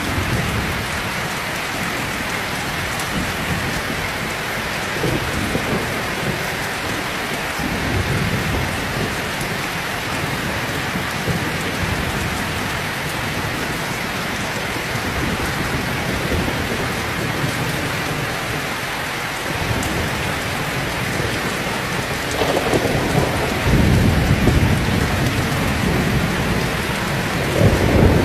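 Heavy rain falling steadily, with low rolls of thunder rumbling under it; the thunder grows louder in the last few seconds.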